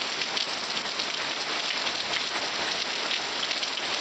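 Heavy thunderstorm rain pouring down steadily, a dense hiss full of fine drop impacts.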